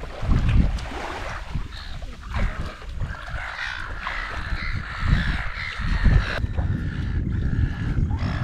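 A bird calling with a drawn-out, rough call lasting about three seconds in the middle, over a low rumble of wind buffeting the microphone.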